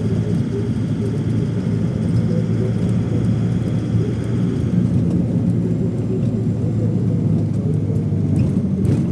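Steady low drone of an airliner's engines heard from inside the cabin in flight, with a short click near the end.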